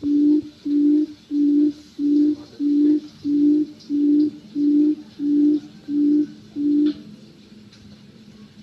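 Quail giving a low hooting call: short notes on one pitch, about one and a half a second, repeated evenly until they stop about seven seconds in.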